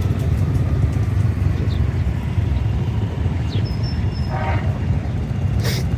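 Street traffic: a steady low rumble of passing vehicles, with a short high-pitched tone a little after three and a half seconds.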